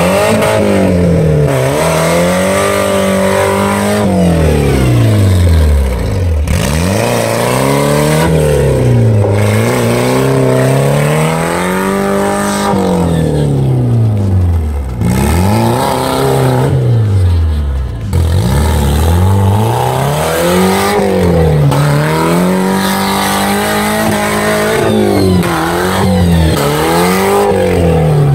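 Audi A4's diesel engine revved hard over and over, its pitch climbing and dropping back about a dozen times.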